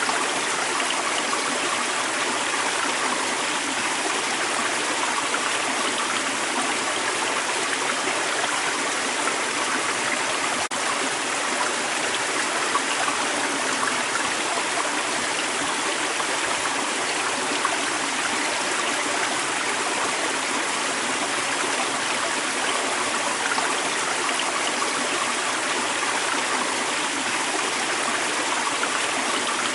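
Creek water flowing and babbling over rocks, a steady rush that does not change.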